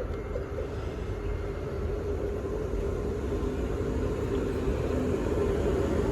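Two coupled SJ X40 double-deck electric multiple units approaching: a low rumble with a steady hum, growing gradually louder.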